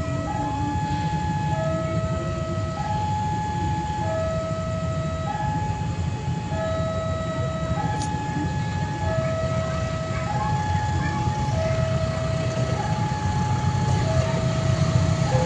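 Electronic railway warning alarm sounding in two alternating tones, high then low, each held about a second, over the steady low rumble of a diesel train engine that grows louder near the end.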